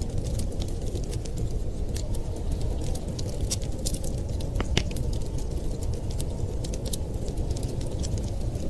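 Fireplace crackling: irregular sharp pops and clicks over a steady low rumble, with one louder pop a little past the middle.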